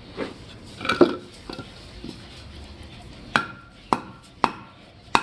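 Wooden baton striking the spine of a knife to split hard mesquite wood (batoning). One sharp knock comes about a second in, then steady blows about two a second from past halfway, each with a short metallic ring from the blade.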